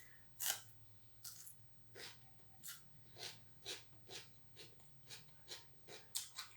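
A person chewing a mouthful of butter chicken and rice with the mouth open, making wet smacking sounds about twice a second.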